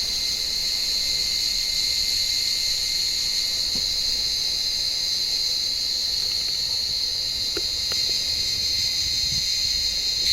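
Cicadas calling in a tree, a steady, high-pitched buzzing drone without a break.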